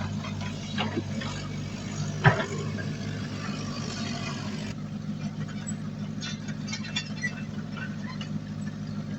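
Heavy diesel engine of earthmoving machinery running steadily, with scattered clanks and one loud knock a little over two seconds in.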